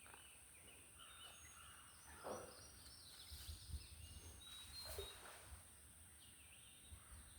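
Faint birdsong: small birds chirping repeatedly in short high notes over a quiet background.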